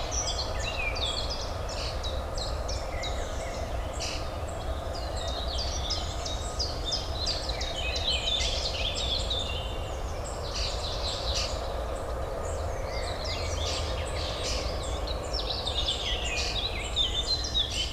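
Many small birds singing at once, a dense run of overlapping chirps and trills, over a steady low urban hum.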